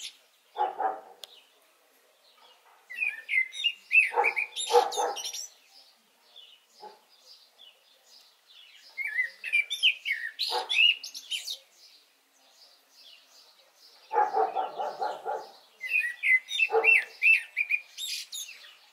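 Garden birds singing in short chirping phrases every few seconds, with a dog barking now and then.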